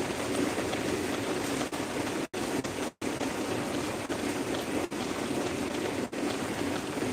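Heavy rain falling in a steady, continuous downpour, the hiss broken by two brief sudden dropouts just after two seconds and at three seconds.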